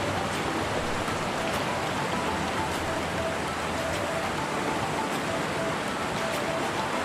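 River water rushing steadily, with faint short high notes recurring over it.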